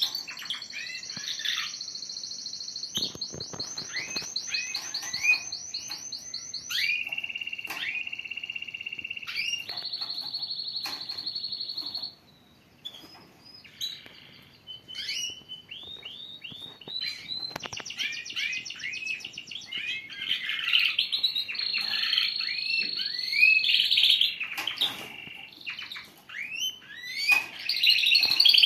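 Canaries singing: fast rolling trills and long held whistled notes, with short rising chirps underneath. The song drops off for a few seconds partway through, then starts again.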